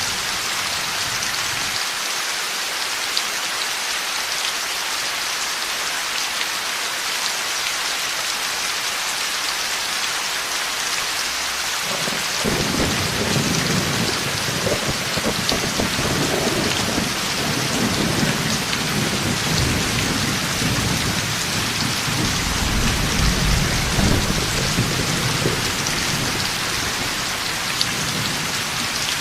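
Heavy rain falling steadily. About twelve seconds in, thunder breaks in suddenly and rolls on as a long, deep rumble that is heaviest near the end, then dies away under the rain.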